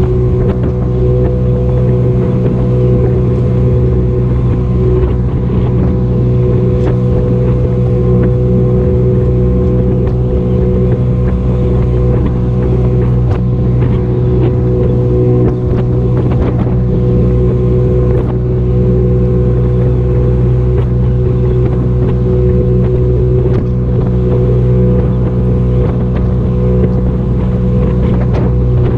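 Motorboat engine running steadily at constant speed: an even low drone with a steady higher tone above it, with a few brief knocks along the way.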